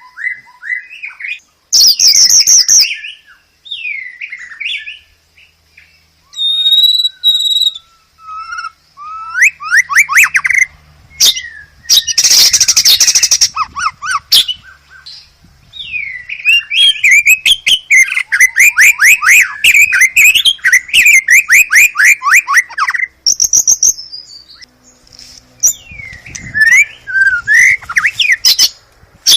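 Songbird song in separate bursts: gliding whistled phrases and harsh chattering notes. A long run of quick repeated notes comes in the middle.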